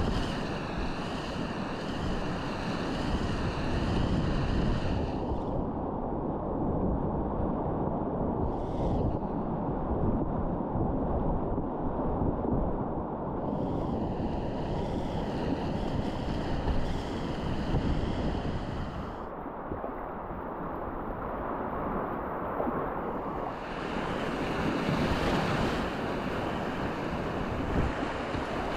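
Rushing whitewater from river rapids, a steady noise throughout, with a higher hiss that comes and goes three times.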